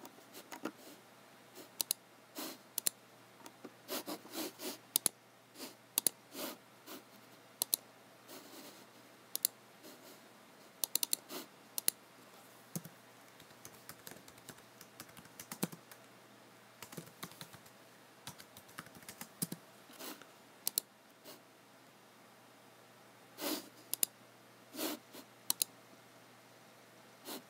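Typing on a computer keyboard: irregular keystrokes and clicks in quick runs with short pauses, thinning out for a couple of seconds before a few heavier taps near the end.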